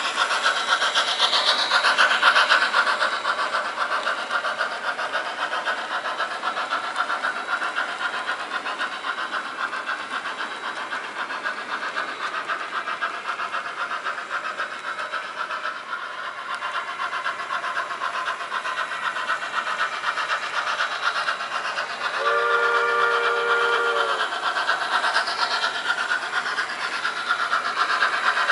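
Sound-equipped HO scale model steam locomotive running, with steady rapid chuffing and hiss; about 22 seconds in it blows a chime whistle once, a chord of several notes held for about two seconds.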